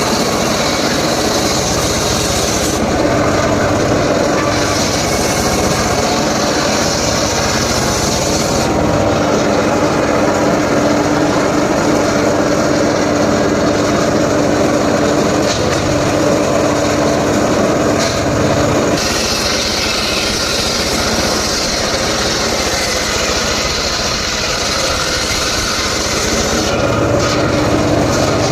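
Small engine-driven saw running steadily while cutting mahogany wood. A high cutting hiss comes and goes in long stretches: for the first few seconds, again from about 4 to 9 seconds in, and from about 19 seconds in until near the end.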